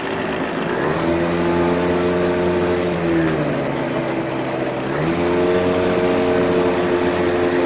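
Engine of a GoCar three-wheeler heard from on board, picking up speed about a second in, easing off around three seconds, then picking up again near five seconds and holding steady.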